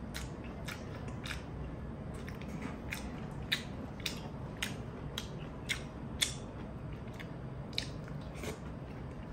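Close-up mouth sounds of a person eating: wet smacking and chewing clicks, irregular, about two a second.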